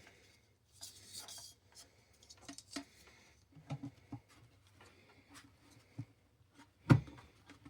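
Wire being fed through a hard plastic animatronic head while the parts are handled: a brief rustling scrape about a second in, scattered small clicks and taps, and one louder knock near the end.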